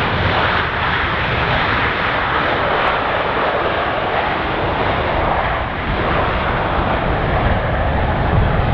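Jet airliner engines with a steady, loud rushing noise that holds even throughout.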